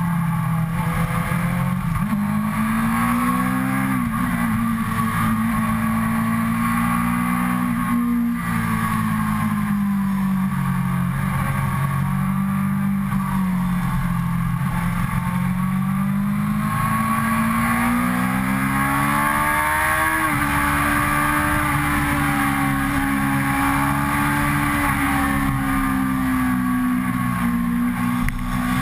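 Suzuki GSX-R sportbike's inline-four engine under way, heard from on board. Its revs rise and fall again and again with the throttle through the bends, over a steady rush of wind noise.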